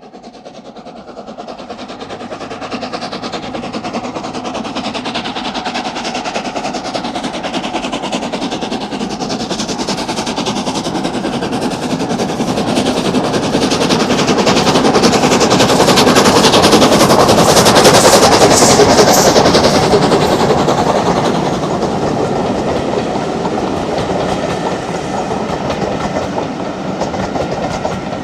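Steam locomotive hauling a train past, its rapid, even exhaust beats fading in, growing loudest about two-thirds of the way through, then easing as it draws away.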